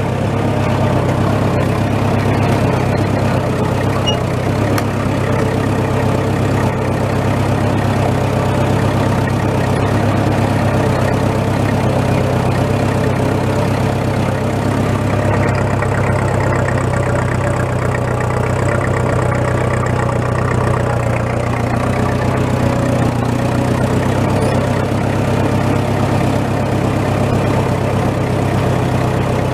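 Tractor engine running steadily as it drives over rough ground.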